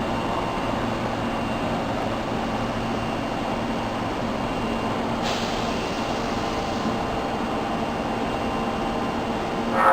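Osaka Metro Tanimachi Line subway train noise at a station platform, steady throughout. A hiss starts about halfway through, and a brief loud ringing, squealing sound comes at the very end.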